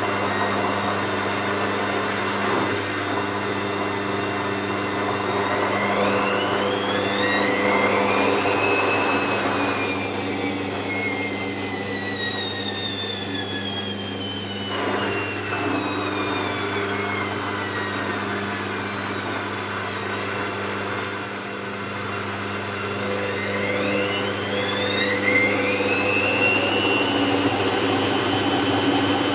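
Hoover VisionTech washing machine running: a steady hum under a motor whine that rises over a few seconds, slowly falls away, and near the end rises again and holds steady, as the drum speeds up, slows, and speeds up again.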